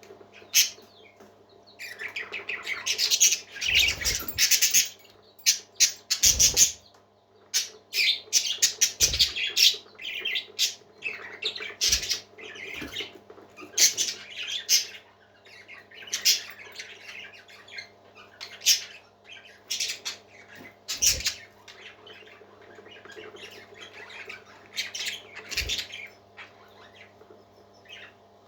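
Parrot giving many short, harsh squawking calls in irregular runs. A few low knocks are heard now and then, and a steady hum runs underneath.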